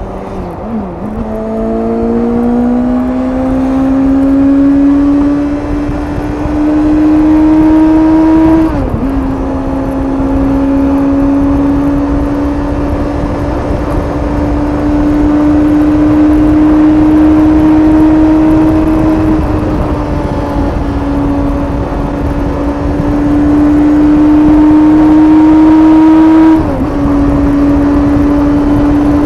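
Suzuki GSX-S750's inline-four engine through its stock exhaust, pulling on the highway. The pitch climbs slowly and drops sharply twice, about nine seconds in and near the end, as the gears change.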